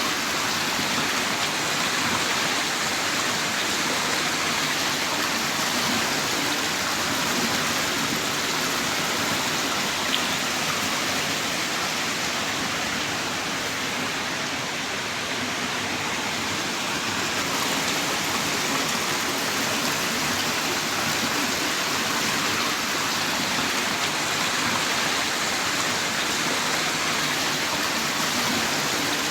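Heavy rain pouring steadily in a dense, even hiss of countless drops, with no let-up.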